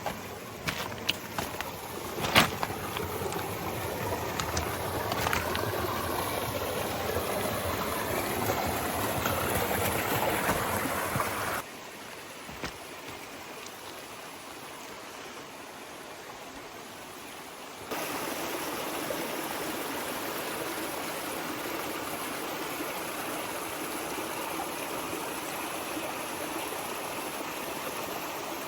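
Creek water running over rocks, a steady rushing wash. A few sharp knocks sound in the first few seconds. The water drops abruptly to a quieter level about twelve seconds in and jumps back up about six seconds later.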